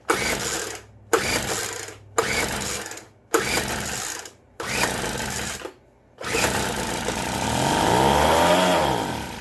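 Poulan Pro PBV 200 LE leaf blower's small two-stroke engine being pull-started on starter fluid with the choke off: five quick recoil-starter pulls, then on the sixth it fires and runs for about three seconds, its pitch rising and then falling as it dies out.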